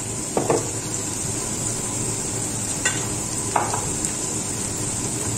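Aderezo base of oil and ají paste sizzling steadily in a pot as it is stirred, with a few short knocks of the utensil against the pot.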